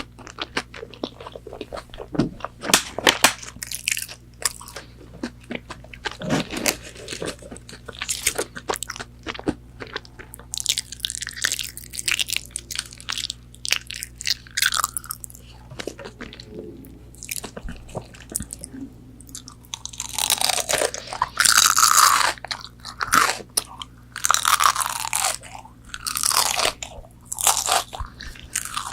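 Close-miked biting, crunching and chewing of McDonald's chicken nuggets: dense crisp crackles of the fried coating, with longer crunchy stretches midway and in the second half.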